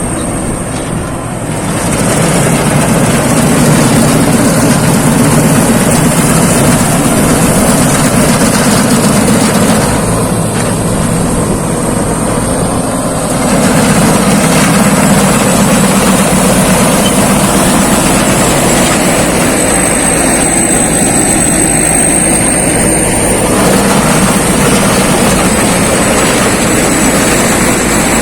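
Rice combine harvester running loud and steady as it works, with a thin high whine over the machine noise. The sound eases slightly twice, at the start and around ten seconds in.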